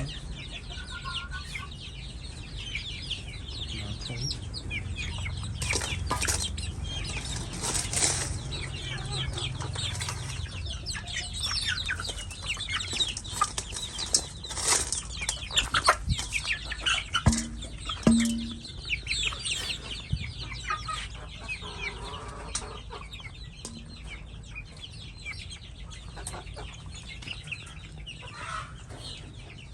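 Chickens clucking, with repeated bursts of wing flapping and scuffling that are busiest and loudest in the middle stretch.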